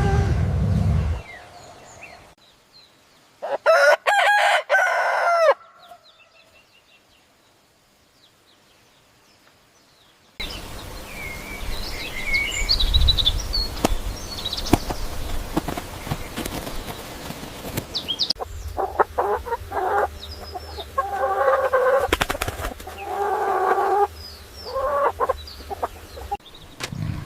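Domestic fowl: a single loud crow-like call, then a stretch of high chirps with wing flapping, then a run of repeated pitched calls.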